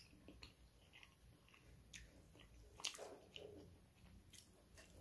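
Soft, close-up chewing and wet mouth sounds of someone eating rice and pork curry by hand, with scattered small clicks and one sharper click about three seconds in.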